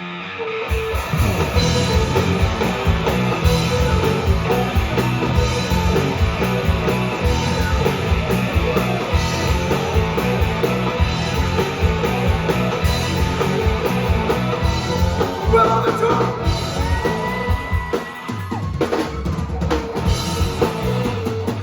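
Rock band playing an instrumental passage with drum kit, bass and electric guitar. The full drum beat comes in about a second in, and the drums drop out briefly near the end.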